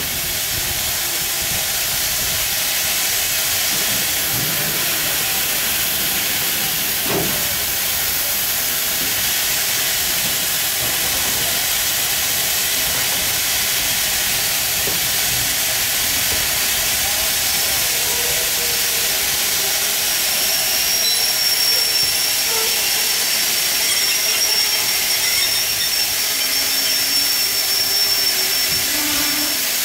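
Passenger coaches of a steam-hauled train rolling slowly past, with a steady hiss. A faint high-pitched squeal runs for several seconds in the latter part.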